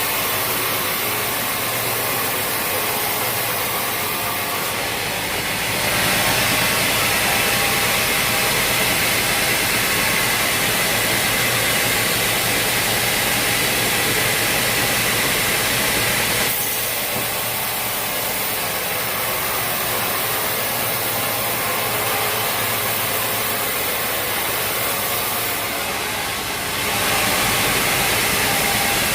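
Sawmill machinery running, a continuous engine drone with hiss. It steps up louder and brighter about six seconds in, drops back after about sixteen seconds, and steps up again near the end.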